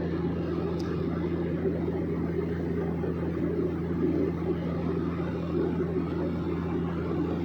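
Small private airplane's engine droning steadily, a constant low hum under a dense rumble.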